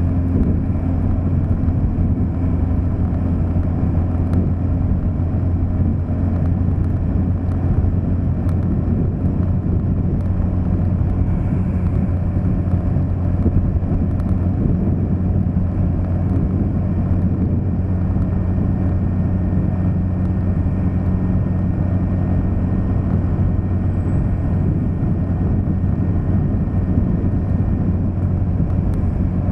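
A moving vehicle's engine and road noise, a steady low drone that holds constant without revving or pauses.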